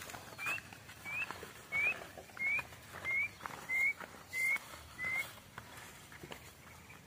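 A bird singing a series of short whistled notes, about one and a half a second, each slurring upward, the series slowly dropping in pitch and stopping about five seconds in.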